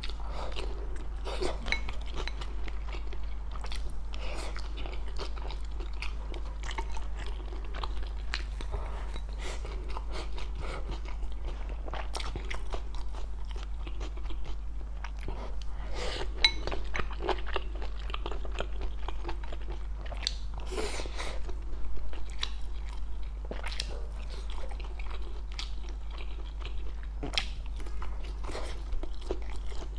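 Close-miked chewing and biting of crunchy mala xiang guo, a spicy stir-fry mix, with a dense run of crisp crunches and wet mouth sounds; a few louder bites come near the middle and about two-thirds of the way in.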